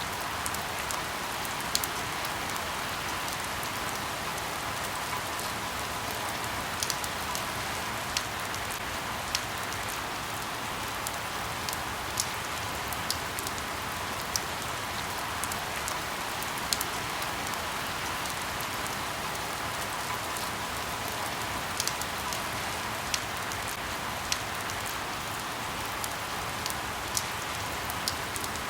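Steady rain falling on leaves: an even hiss with individual louder drops ticking every second or two.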